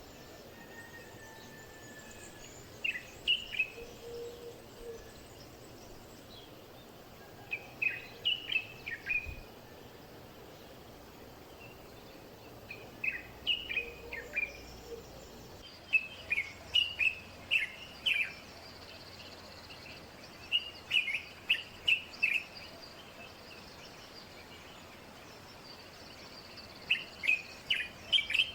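A bird calling over and over: short phrases of several quick, sharp chirps, repeated every few seconds, over a steady faint background hiss.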